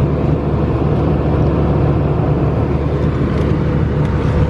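Airbus A320 cabin noise in cruise flight: a steady, loud rush of engine and airflow noise, heaviest in the low range, with a faint steady hum running through it.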